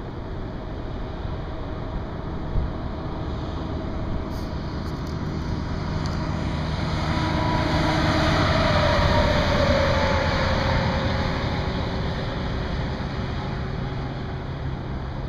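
A vehicle passing on the highway. The sound swells to a peak past the middle, its pitch drops as it goes by, and then it fades, over a steady low traffic hum.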